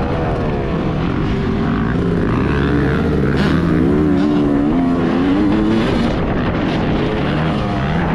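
Yamaha YZ250 two-stroke motocross engine being ridden hard, its pitch rising and falling again and again as the throttle is opened and closed.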